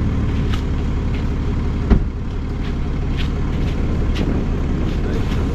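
A vehicle engine running with a steady low rumble. There is one sharp thump about two seconds in and faint clicks now and then.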